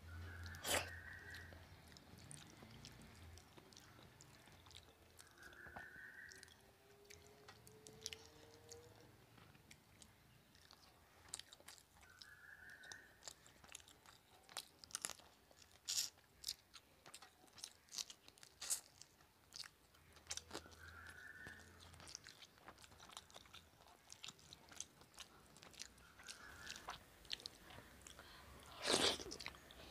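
Close-miked mouth sounds of a person eating rice mixed with dal by hand: chewing with wet clicks and lip smacks, the loudest near the end.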